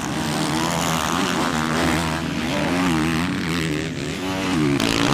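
Motocross bike engines racing, the engine note rising and falling constantly as the riders work the throttle.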